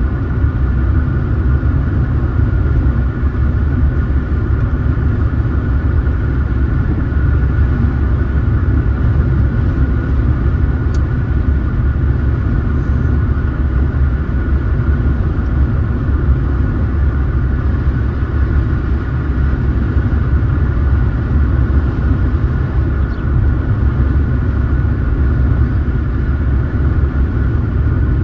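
Car driving at a steady pace: constant road and engine rumble with a steady higher hum over it, and one brief click about eleven seconds in.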